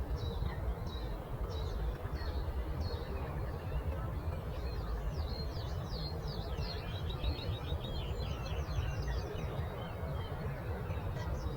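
Birds singing: repeated short falling chirps, then a fast trill of rapid notes in the middle, over a steady low rumble of outdoor background noise.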